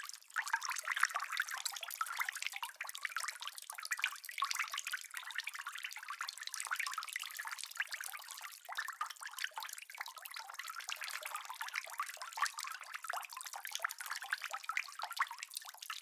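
Steady rain: a dense, even patter of many small drops, light and crisp, with no deep rumble under it.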